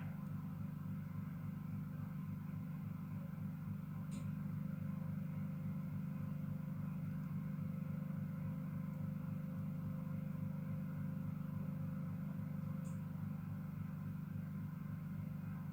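Steady low machine hum, with two faint clicks, one about four seconds in and one near the end.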